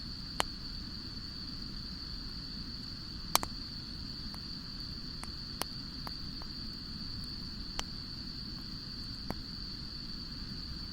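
Wood fire burning with a low steady rumble and only occasional sharp crackles, about eight pops spread irregularly, the loudest about three seconds in. A steady high-pitched whine runs underneath.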